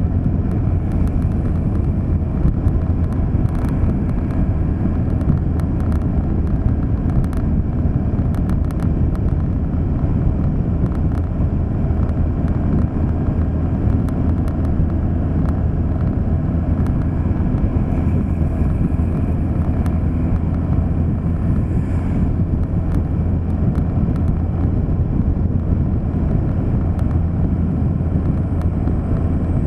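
A vehicle driving steadily along a road: a constant low rumble of engine and tyre noise with no change in speed.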